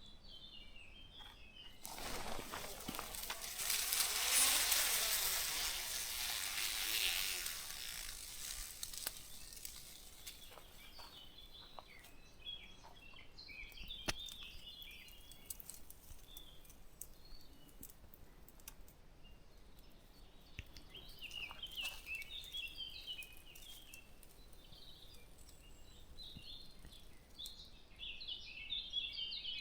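Small birds chirping in woodland, with a swell of rushing noise that rises about two seconds in, peaks around four seconds and fades away by about eight seconds.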